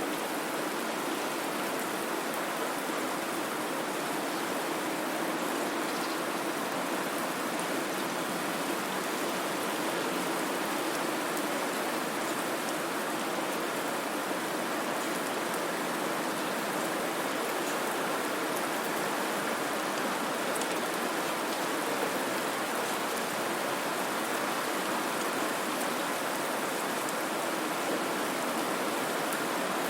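Steady white noise: an even, unchanging hiss with no tones or rhythm.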